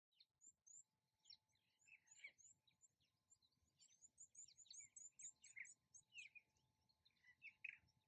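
Birds chirping and calling, faint: a busy run of short, high chirps overlapping with lower, down-slurred calls, thickest in the middle and again near the end.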